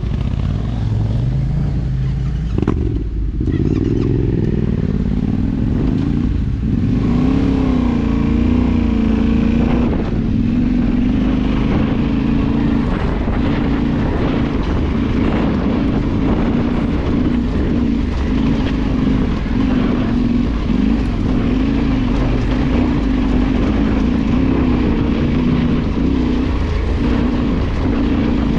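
Motorcycle engine running under way, its pitch wavering up and down with the throttle and climbing about three seconds in.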